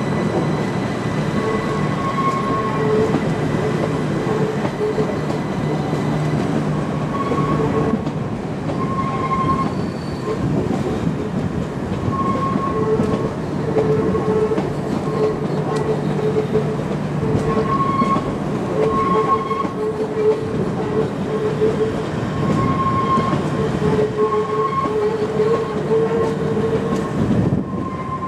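Long passenger multiple-unit train moving slowly past on the rails, a steady low hum with short high-pitched tones coming and going.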